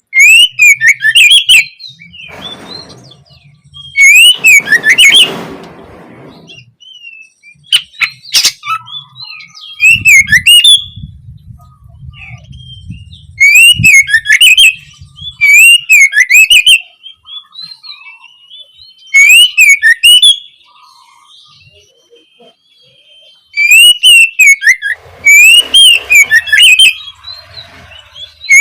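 Oriental magpie-robin singing loudly in short bursts of rapid, twisting chirps and whistles, one phrase about every three seconds.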